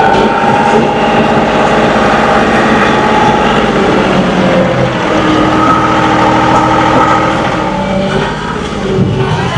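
John Deere 2038R compact tractor's three-cylinder diesel engine running steadily under working load, its engine speed drifting up and down.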